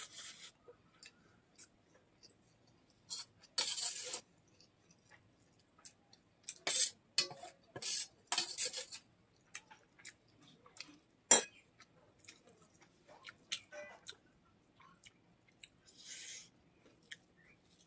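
Mouth sounds of a person chewing chicken gizzard curry with rice, in irregular short bursts, with one sharp click about eleven seconds in.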